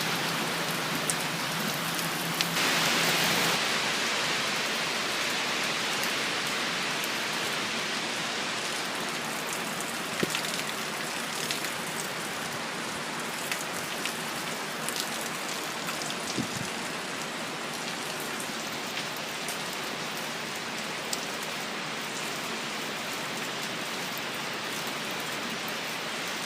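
Heavy storm rain falling steadily, with scattered sharp drip taps and a brief louder surge about two and a half seconds in.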